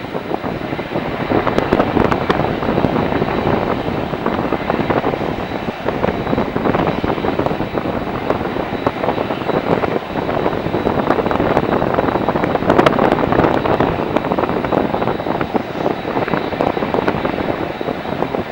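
Jet airliner's engines passing close by: a loud, steady rush of noise with a thin high whine over it, swelling slightly a couple of seconds in and again around the middle.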